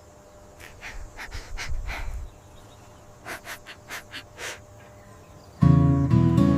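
A series of short, quiet breathy puffs, like an animal breathing hard. Near the end a much louder held chord of several low pitches sets in.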